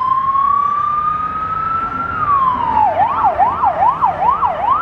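Ambulance siren: a long wail rising slowly in pitch, which glides down about two seconds in and switches to a fast yelp, rising and falling about two and a half times a second.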